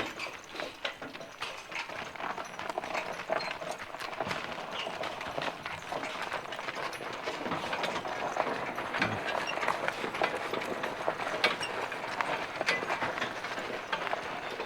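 A loaded hay wagon pulled by a draft horse team, rattling and clattering steadily as it rolls, with many small knocks and clicks.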